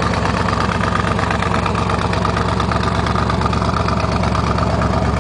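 1972 LT-1 350 small-block V8 idling steadily through side exhaust pipes.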